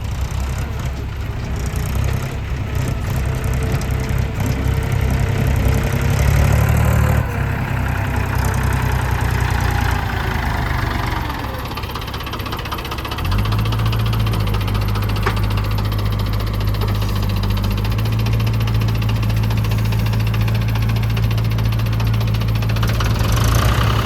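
Heavy diesel engine running, its note shifting unevenly at first and then settling into a steady, even run about halfway through.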